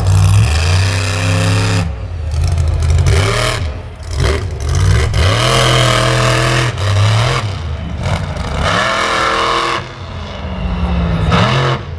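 Monster truck engine revving hard in repeated bursts, its pitch climbing and falling about five times, with loud, rough noise during the biggest runs.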